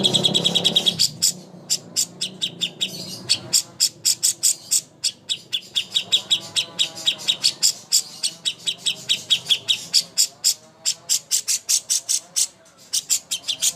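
A songbird's rapid chattering: long runs of short, sharp, high chirps at about six a second, with a couple of brief pauses.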